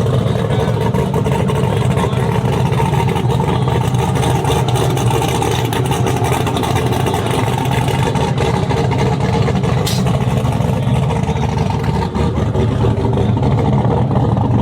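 Twin-turbo Chevy Silverado's engine running steadily at a constant speed, a deep, even rumble with no revving.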